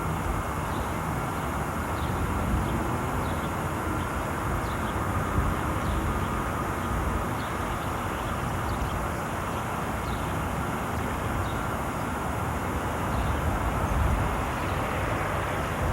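Steady rumbling jet-aircraft noise, rising slightly near the end.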